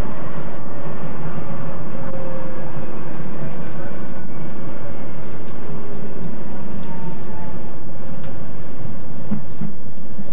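Docklands Light Railway train running, heard from inside the front of the car: steady running noise with a faint motor whine that slides down in pitch, and a few clicks from the rails.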